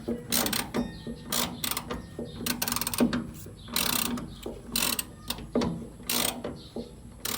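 Ratchet wrench being worked in short strokes, each stroke a quick run of clicks, repeated about once a second.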